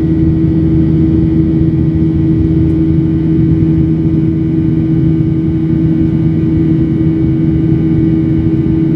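Cabin noise inside a Boeing 737-800 climbing out after takeoff: the steady drone of its CFM56-7B turbofan engines and rushing air, with a constant hum.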